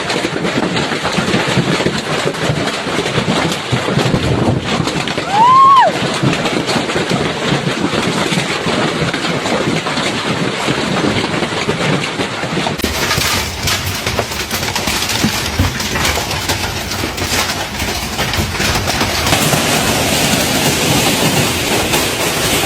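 Heavy hail pounding down: a loud, continuous clatter of countless hailstone impacts. A short rising-and-falling tone cuts through about five seconds in.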